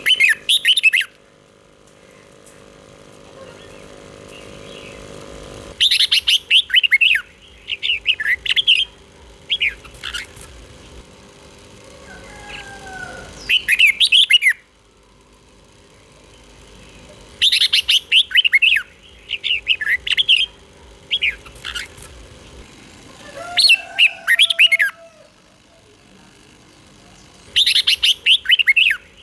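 Red-whiskered bulbul singing: short, bright, quick warbling phrases, each a second or two long, repeated every few seconds with brief pauses between.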